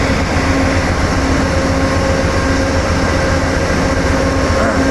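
Diesel train running steadily: a loud, deep engine rumble with a few steady hums over it.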